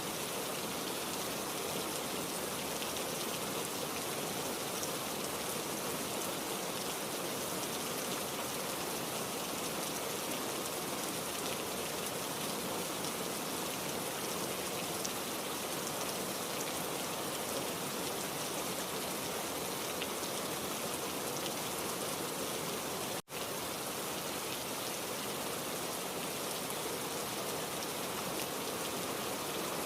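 Steady heavy rain, an even hiss of drops with no thunder, broken by a split-second dropout about three-quarters of the way through.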